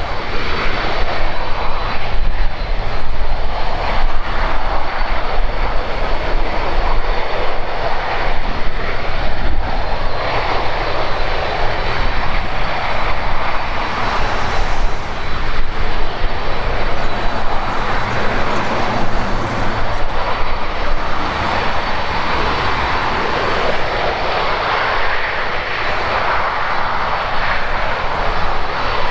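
Boeing 767-300ER jet engines running loud and steady, with a broad roar that swells and eases slightly.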